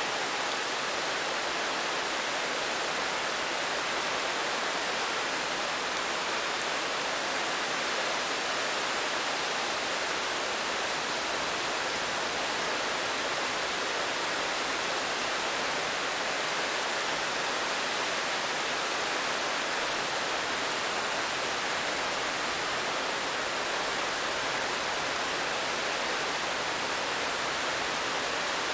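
Steady rain, an even hiss without distinct drops or changes.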